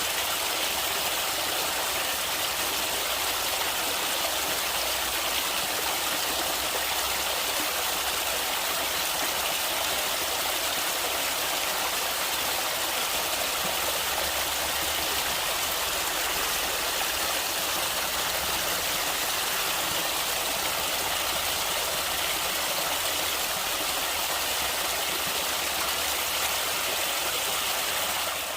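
Stream water flowing steadily, an even, unbroken hiss with little low rumble.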